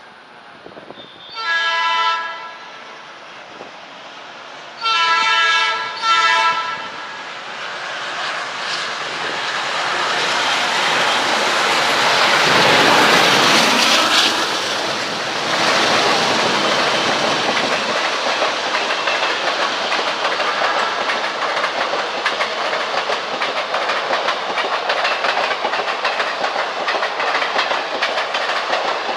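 Indian Railways locomotive horn sounding three times: one blast, then after a pause two more close together, the last one short. A train then approaches and passes at speed, its wheels clattering steadily over the rail joints.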